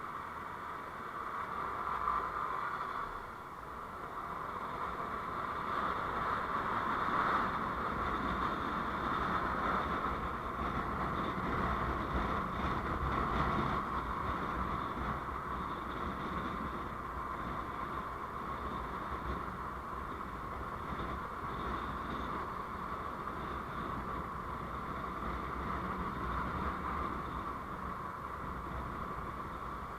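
Steady engine and road noise from a vehicle on the move, a little louder from about five to fourteen seconds in.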